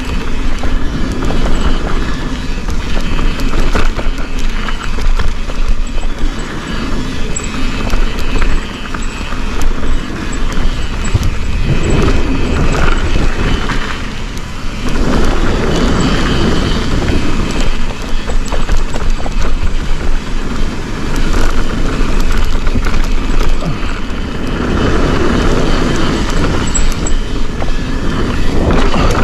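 Forbidden Dreadnought full-suspension mountain bike riding down a dirt trail: steady tyre roar over the ground, with many small knocks and rattles from the bike and chain, and wind rushing over the microphone.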